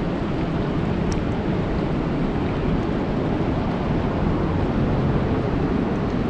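Steady rain falling on a lake: a dense, even rushing hiss with no let-up, and a single faint sharp drip tick about a second in.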